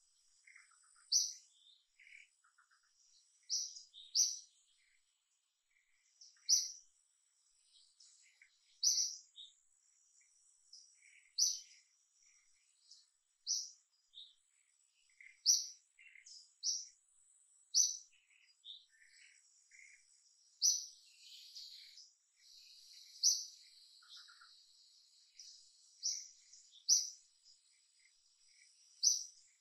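A small bird giving short, high chirps over and over, roughly one every one to two seconds, with a faint steady high-pitched whine underneath.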